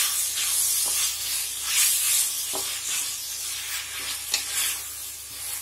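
Chopped onions, tomatoes and green chillies sizzling in hot oil in a metal pot while a wooden spatula stirs them, the sizzle swelling with each stroke about once a second. Three sharp knocks of the spatula against the pot.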